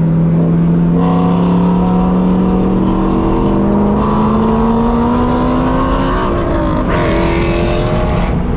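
Car engine accelerating, its pitch rising steadily for about six seconds, dropping at a gear change, then climbing again, heard from the cabin of an open-top convertible with wind rushing past.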